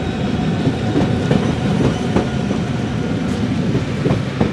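Double-deck electric commuter train passing close by: a steady rumble of wheels on the rails with scattered sharp clicks.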